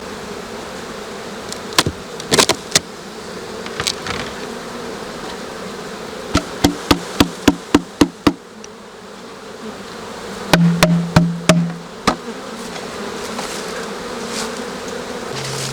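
Honeybees buzzing around an open hive, with sharp knocks and taps from working the hive. There are a few knocks about two seconds in, then a quick run of about eight taps around six to eight seconds, and another cluster of knocks a little after ten seconds.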